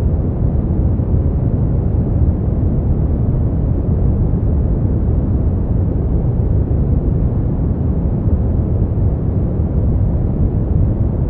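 Steady generated sleep noise: a continuous, deep, muffled rush that is heaviest in the bass, with no hiss and no changes.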